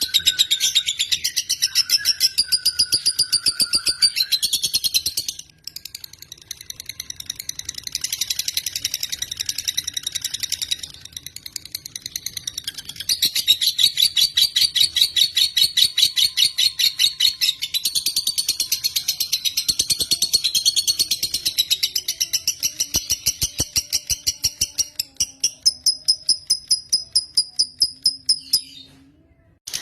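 Lovebird (Agapornis) singing a long, rapid chattering trill of high squeaky notes. It falters briefly about five seconds in and again around eleven to thirteen seconds, then resumes and stops just before the end.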